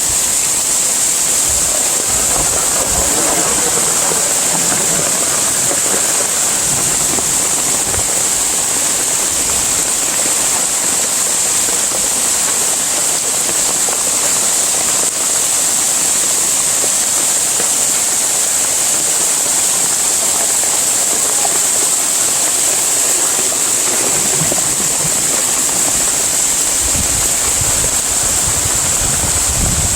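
Heavy tropical rain falling, a loud steady hiss with a few low rumbles near the end.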